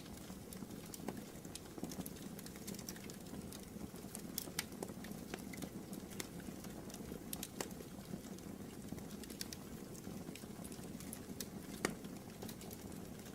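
Wood fire in a fireplace crackling: irregular sharp pops and snaps over a low steady rustle of flames, with one louder pop near the end.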